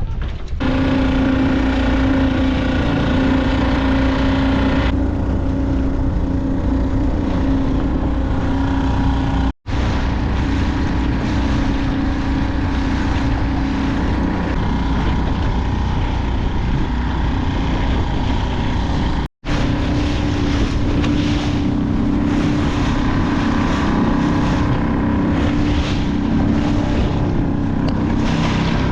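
Small boat's motor running steadily under way, a constant drone with wind and water noise over it. It breaks off for an instant twice, about a third and two-thirds of the way through.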